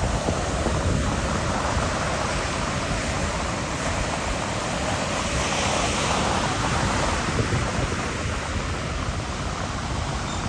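Ocean waves washing on a shore in a steady rush, with wind buffeting the microphone as a low rumble.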